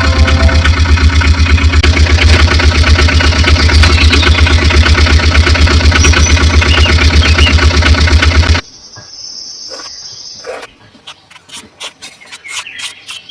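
Tractor engine running with a steady, rapid low pulsing that cuts off abruptly about eight and a half seconds in. After that come faint scattered clicks and taps.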